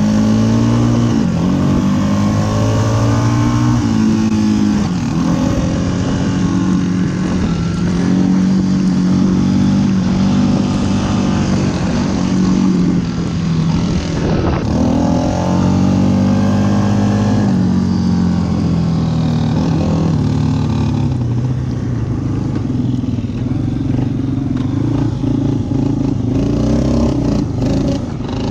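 Yamaha Wolverine ATV engine running under way, its pitch rising and falling over and over as the rider accelerates and eases off the throttle.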